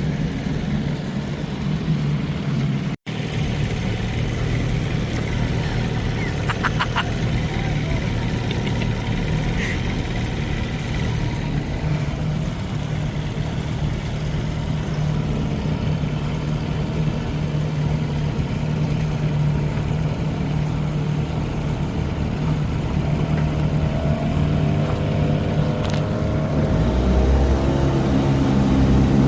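Johnson 20 hp outboard motor running steadily under way, with a brief dropout about three seconds in. Near the end a rising engine note comes in and the sound grows louder.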